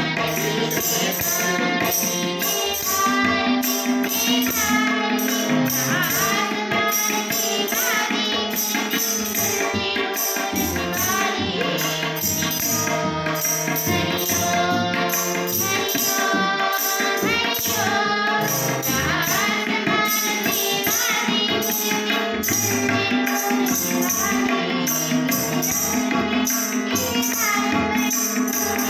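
A sung Hindi devotional song with a tambourine-like jingle keeping a steady beat over sustained accompaniment.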